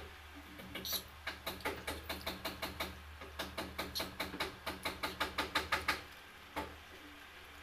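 A person chewing soft, sticky rice cakes (puto and kutsinta with grated coconut) close to the microphone. Quick, even wet mouth clicks come about five times a second and stop about six seconds in, with one more click after, over a faint low hum.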